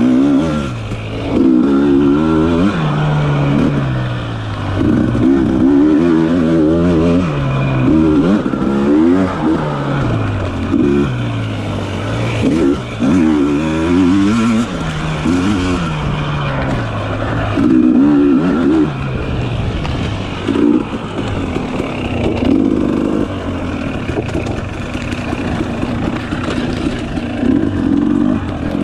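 Dirt bike engine revving up and falling back over and over, its pitch climbing and dropping every second or two as the throttle is opened and closed and the gears change.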